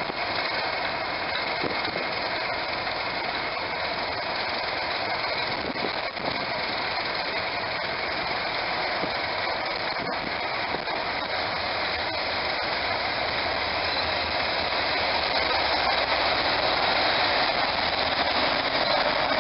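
Diesel locomotive engine running steadily, growing a little louder over the last few seconds.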